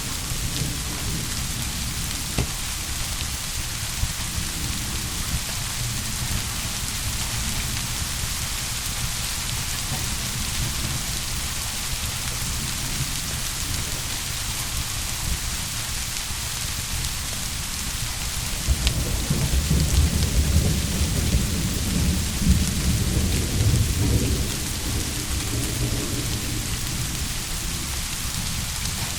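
Steady heavy rain, with a low rumble of thunder rolling in about two-thirds of the way through and dying away after several seconds.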